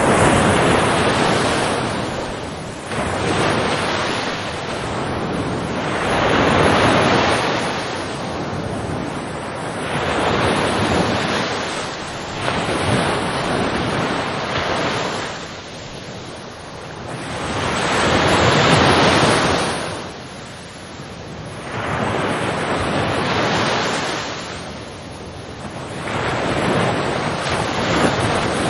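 Ocean surf, waves breaking and washing in; the rushing noise rises and falls with each wave every three to five seconds.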